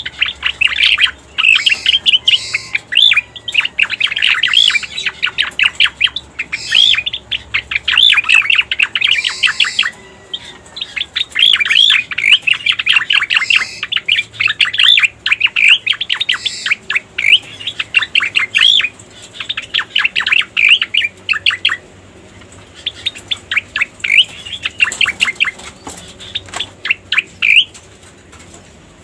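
Cica koreng birds singing: phrases of rapid, fast-repeated chirps lasting a few seconds each, broken by short pauses. This is a bird-trapping lure (masteran) recording.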